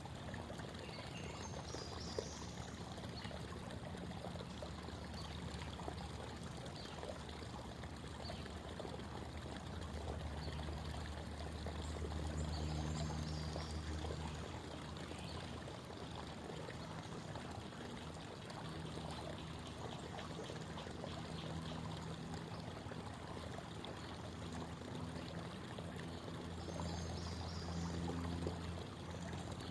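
Creek water babbling and trickling over stones in a steady wash, with a deeper gurgle swelling louder twice, about a third of the way in and again near the end.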